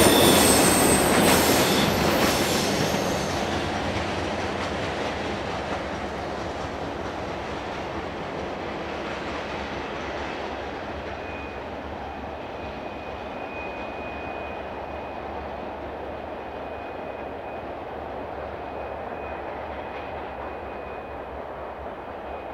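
The last cars of an empty freight train roll past with wheels clicking over the rail joints, and the noise fades into a steady low rumble as the train moves away. From about ten seconds in, a faint steady high squeal of wheels on the curve joins the rumble.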